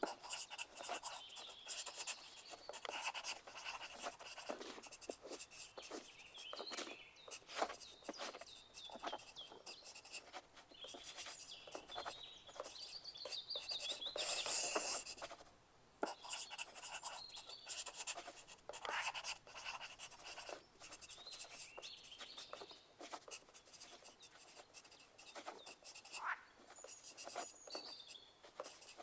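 Pencil writing on paper: an irregular run of short scratching strokes, busier and louder about halfway through.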